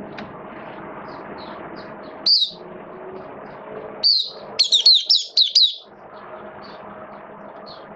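White-eye singing: a short burst of high, quick notes about two seconds in, then a longer run of rapid downward-sweeping chirps from about four to six seconds in, over a steady background hum.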